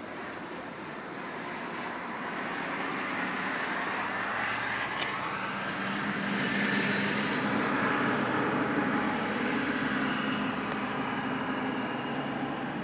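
Road traffic: a motor vehicle passing by, its tyre and engine noise swelling to a peak past the middle and then fading.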